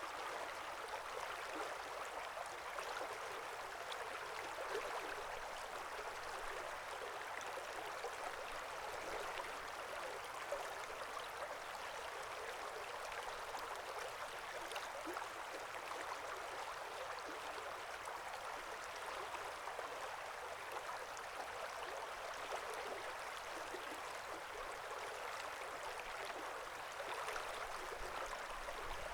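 A small forest brook babbling steadily over stones, a continuous trickling rush of water with small splashes.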